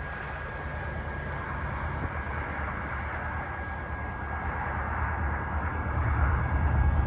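BNSF GE Dash 9 diesel locomotive approaching at the head of an intermodal train: a low engine rumble that grows steadily louder as it nears.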